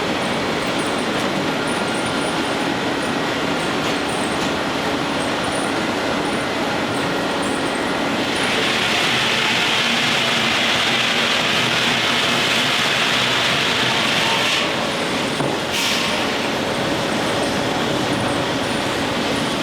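Steam-powered sawmill machinery running steadily, with a louder hissing stretch of about six seconds in the middle and a brief burst just after.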